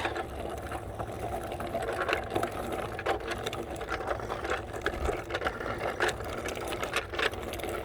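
A child's bicycle rattling and clicking steadily as it rolls along, with irregular sharper clicks and knocks throughout.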